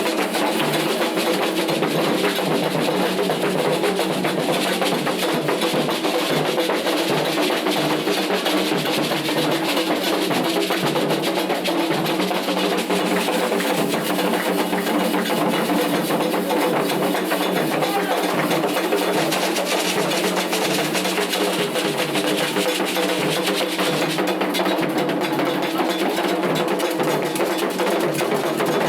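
Candomblé ritual drumming: atabaque hand drums playing a continuous, steady rhythm.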